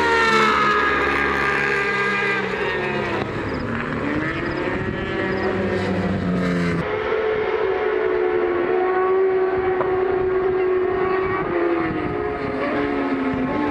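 Racing superbike engines at high revs, their pitch sliding down and back up. About seven seconds in the sound changes abruptly to a steadier engine note.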